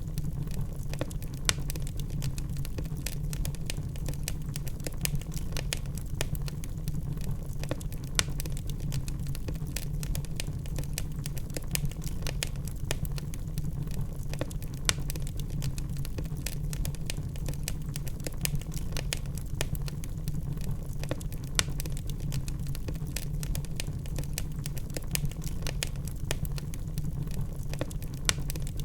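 Wood logs burning in a fireplace, crackling and popping: many small, irregular snaps over a steady low rumble of the flames.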